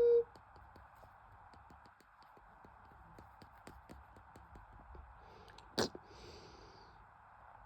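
A washing machine beeps once, briefly, then ticks steadily at about four clicks a second over a faint running hum, with one louder click about six seconds in.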